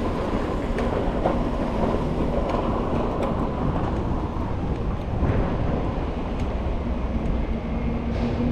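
Steady low rumble of a bicycle rolling along city pavement, with wind on the microphone, a faint steady hum and a few light ticks.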